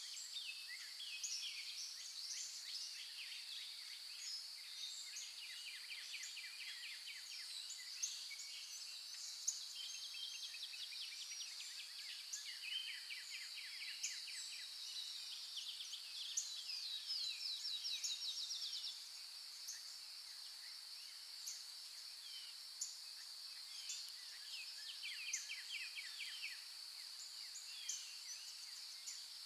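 Many birds chirping and calling, with rapid trills, over a steady high-pitched insect drone.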